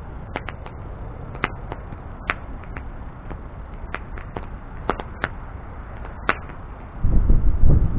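Wood bonfire burning with a steady low rush and irregular sharp crackles and pops from the burning wood. About seven seconds in, a much louder low rumble sets in.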